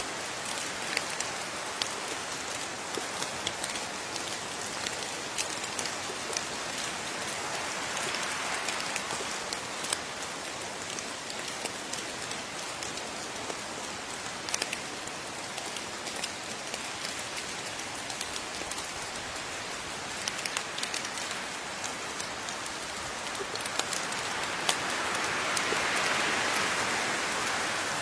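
Steady rain, with many individual drops clicking sharply on a surface over the hiss of the downpour. The rain swells heavier about a third of the way in and again near the end.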